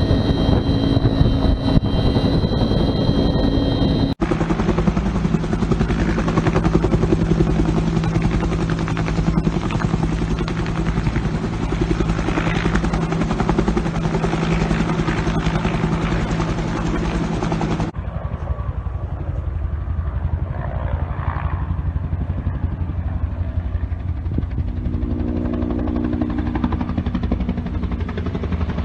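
Bell 210 (UH-1) helicopter running close by: its turboshaft engine and two-bladed main rotor make a steady, loud beat with a constant low hum. The sound jumps abruptly to a different take about four seconds in and again past halfway.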